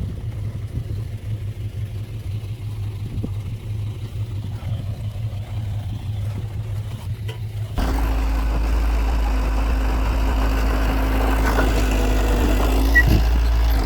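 Heavy diesel earthmoving machinery running steadily. About eight seconds in, the sound cuts abruptly to a different, deeper engine drone.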